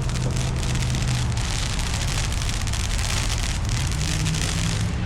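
Car in slow traffic: a low engine hum, its pitch dropping about a second in and rising again near the end, under a steady crackling hiss.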